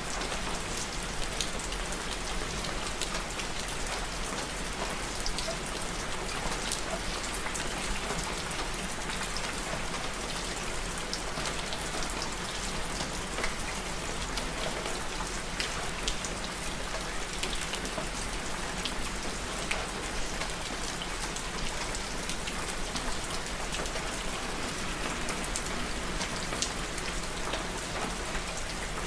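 Steady rain: an even hiss with many separate sharp drop ticks.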